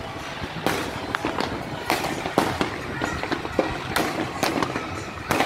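Fireworks and firecrackers going off in a dense, irregular string of sharp bangs and crackles, with several louder blasts standing out among them.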